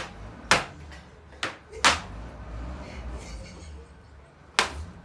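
Four sharp smacks at uneven intervals, over a low steady hum.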